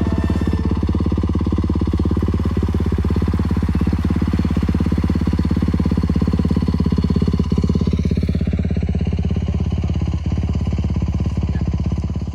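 Dirt bike engine running steadily close by, with a rapid, even firing pulse; it cuts off abruptly at the end.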